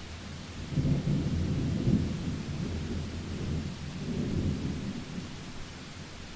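Thunder rolling as a low rumble that rises just under a second in, swells again about four seconds in and then fades, over the steady hiss of rain.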